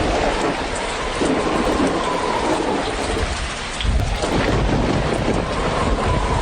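Steady rain falling with low rumbling thunder; the rumble swells about four seconds in.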